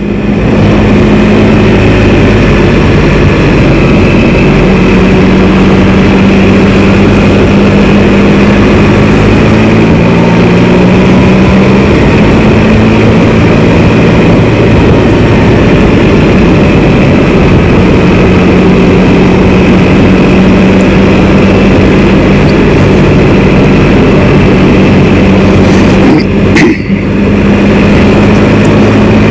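Can-Am Spyder three-wheeled motorcycle on the move: its engine runs steadily under heavy wind and road noise on the rider's microphone, the engine note stepping up or down a little a few times. There is a brief dip in the noise near the end.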